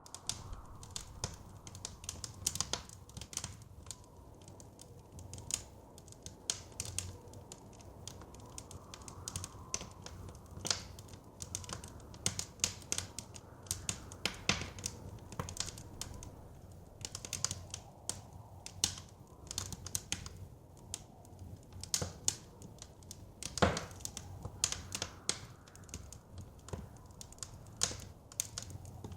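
Wood fire crackling in a fireplace: irregular sharp pops and snaps, several a second, with a louder pop near the end, over a soft low rumble of the flames and wind.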